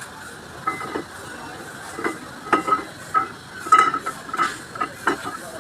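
Metal tools and engine parts clinking and knocking against each other irregularly, some strikes ringing briefly, as hand work goes on on a diesel truck engine.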